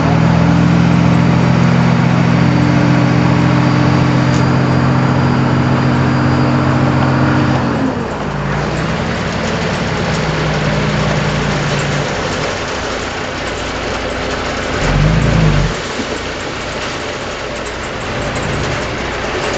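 Heavy earthmoving machine's diesel engine revving up, held at high revs under load for about seven seconds, then dropping back to a lower steady speed, with a short rev again about fifteen seconds in.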